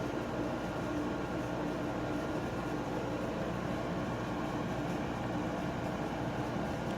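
Old air conditioner running: a steady whooshing fan with a constant low hum under it.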